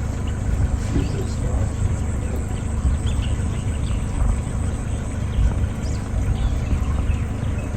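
Faint, scattered high bird calls over a steady low rumble.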